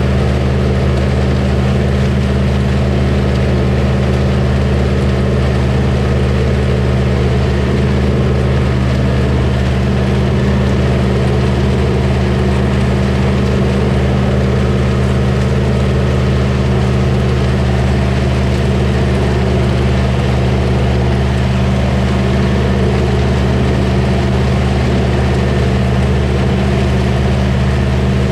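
Combine harvester running steadily: a constant, loud engine and machinery drone with no change in speed.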